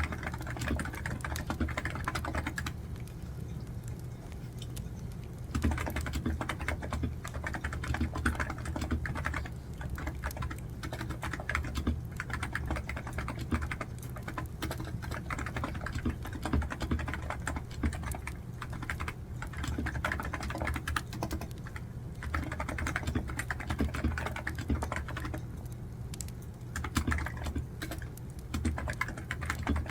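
Computer keyboard typing in rapid runs of keystrokes, pausing twice for a couple of seconds.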